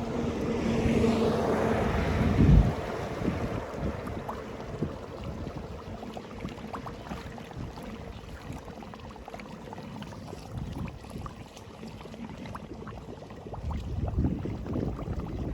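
Flood water rushing through a cleared drain grate, with wind on the microphone. There is a single thump about two and a half seconds in, and small knocks and ticks after it.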